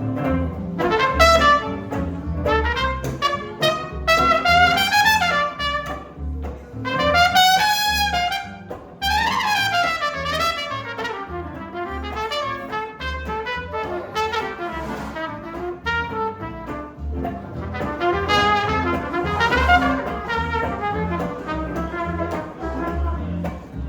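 Live jazz band with a trumpet playing a melody of quick phrases that climb and fall, over a steady bass line.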